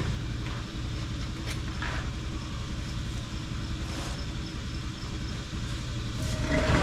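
An engine idling steadily, with a louder burst of mixed noise near the end.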